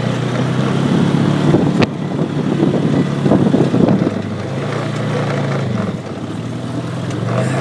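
Four-wheeler's engine running close to the microphone as it is ridden over a rough dirt track, with a rattling rumble from the bumps and one sharp knock about two seconds in. The revs rise and fall about five seconds in.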